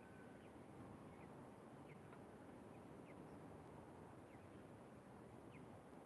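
Near silence with a steady faint hiss, broken by faint, short, high bird chirps about once a second.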